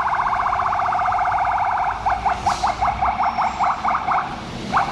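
Emergency vehicle siren sounding in a very fast warble, switching about two seconds in to a yelp of quick rising sweeps, about five a second, with a brief break near the end.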